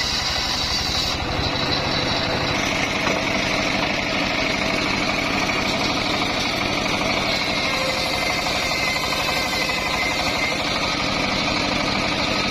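Engine of a homemade circular saw rig running steadily, a continuous low rumble with a rapid firing beat and a steady higher whine above it.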